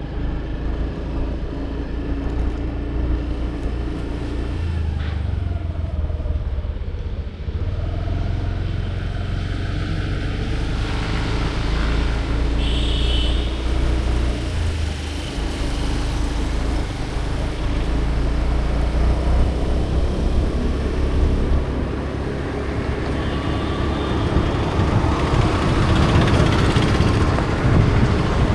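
Motor vehicle running along a road: a steady engine hum under heavy low rumble of road and wind noise, growing somewhat louder near the end.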